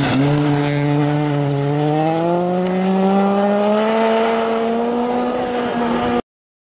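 Rally car engine at high revs, its pitch climbing steadily and without a break as the car pulls away. It stops abruptly near the end.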